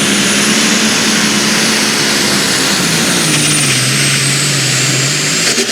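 Light super stock pulling tractor's turbocharged engine running flat out under load, with a high turbo whine over it. The engine note sinks slowly as it lugs down, and near the end the throttle comes off and the whine starts to fall away.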